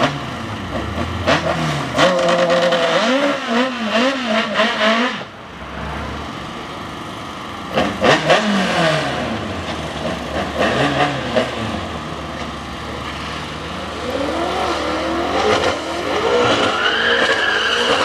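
Drag race car engines revving hard in repeated bursts, the pitch sweeping up and down, with sharp cracks among the revs. Near the end one engine climbs and holds high revs for several seconds.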